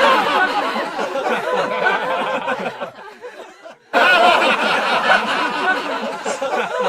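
A group of people laughing together, mixed with some chatter. The laughter fades about three seconds in, then a fresh burst starts suddenly about a second later.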